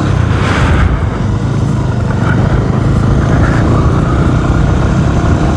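Motorcycle engine running steadily, a dense low rumble, with a short hiss in the first second.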